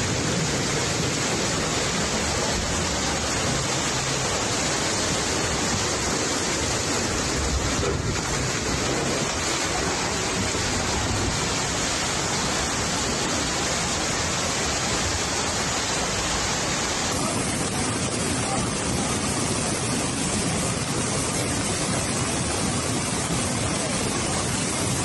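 Steady, loud rush of water during a flood, with no distinct events. The sound changes character about seventeen seconds in.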